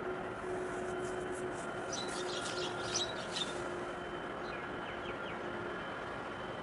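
Birds chirping in a quick cluster of short, high calls about two seconds in, with a few fainter chirps a little later, over steady background noise and a steady hum.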